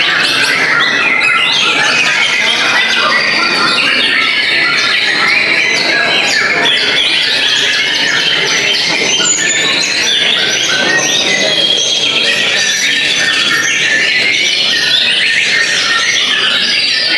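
Many white-rumped shamas (murai batu) singing at once, a dense overlapping chorus of whistles, trills and chattering notes with no pauses.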